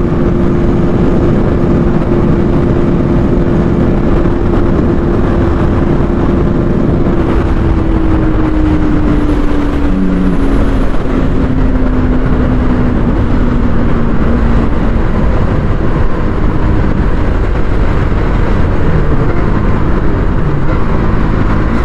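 Bajaj Pulsar NS200's single-cylinder engine running at high revs through all-gear top-speed acceleration, with heavy wind rush. The engine note holds steady, then from about seven seconds in the revs slowly drop.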